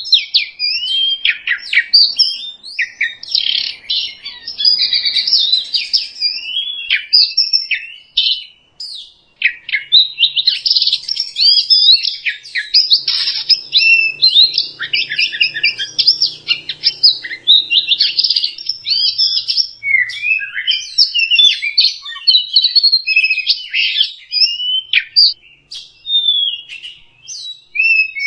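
Oriental magpie-robin (kacer) singing: a fast, unbroken run of varied chirps, trills and whistles, with a short pause about eight seconds in. It is a lure recording of kacer song, of the kind played to prompt a reluctant caged kacer to sing.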